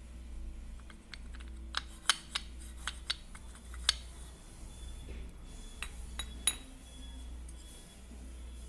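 Small hard parts clinking and clicking together as they are handled: sharp clinks bunched about two to four seconds in and again around six seconds, over a steady low hum.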